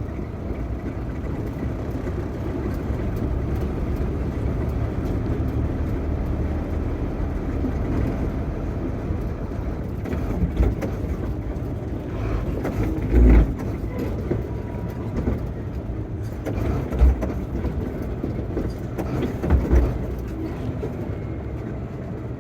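Sinotruk HOWO truck's diesel engine running with a steady low rumble, with a few heavy low thumps in the second half.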